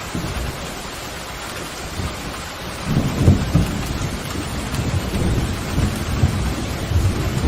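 Steady pouring rain with thunder. A low rumble swells about three seconds in and keeps rolling, loudest just after it starts.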